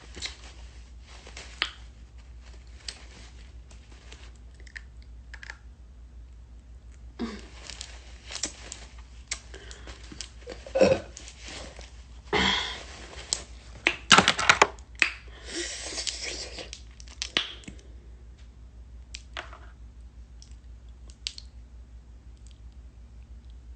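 Someone eating a ripe mango: wet biting, chewing and sucking sounds with scattered clicks and smacks, busiest in the middle.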